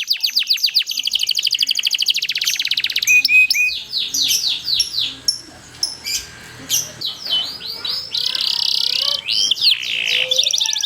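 Domestic canary singing a long, fast song. It opens with a rapid trill of repeated sweeping notes, moves into varied chirps and whistled phrases, and has a dense buzzing roll a little past two-thirds of the way through.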